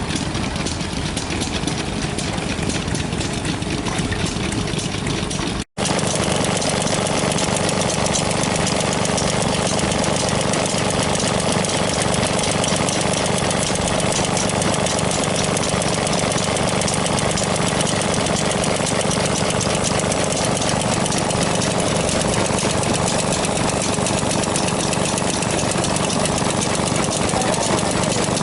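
Vintage stationary engines running steadily at idle with a fast, even beat. Just under six seconds in, the sound breaks off for an instant and a second, somewhat louder engine takes over.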